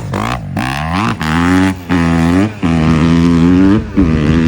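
Vehicle engine revving hard in a string of short pulses, cutting out briefly about every second and climbing back up to the same pitch each time.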